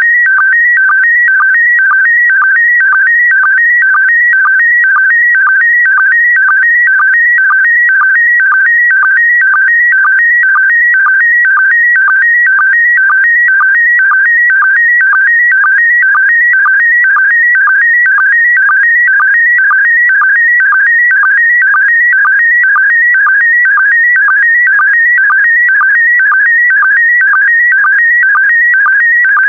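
Slow-scan TV image signal in PD120 mode: warbling audio tones between roughly 1.5 and 2.3 kHz, broken by a short low sync pulse about twice a second as each pair of picture lines is sent.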